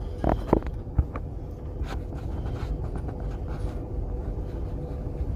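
Steady low rumble and hum of a moving train, with a few sharp knocks about a second in.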